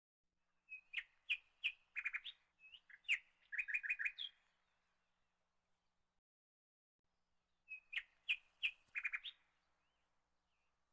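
A bird chirping faintly in two bouts of quick, high chirps and short trills, the first starting about a second in and the second about eight seconds in.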